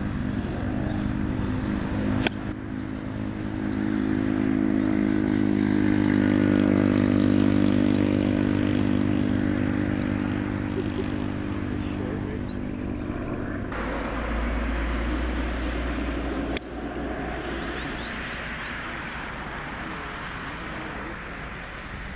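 A motor running with a steady hum that swells over several seconds and then fades, cutting off about 14 seconds in and giving way to a deep low rumble. Sharp clicks mark abrupt changes in the sound about 2 seconds in and again near 17 seconds.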